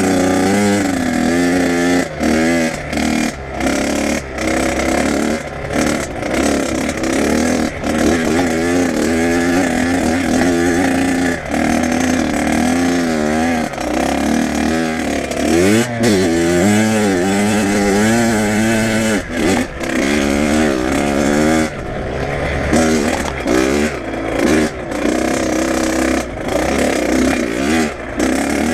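Kawasaki KX100 two-stroke dirt bike engine being ridden, its pitch rising and falling again and again with the throttle, with many brief dips in loudness.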